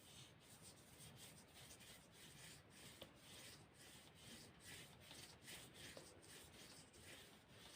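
Faint, repeated rubbing strokes on paper, two or three a second, as in painting or drawing.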